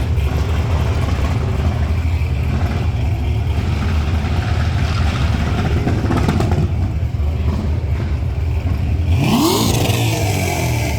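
Car engine running with a loud low rumble during a burnout. About nine seconds in, the revs climb sharply and a sudden rush of hissing noise breaks out for about a second, which is taken for a tire blowing.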